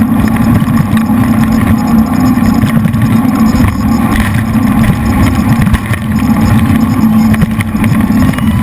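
Jet boat's V8 engines running at speed, a loud steady drone.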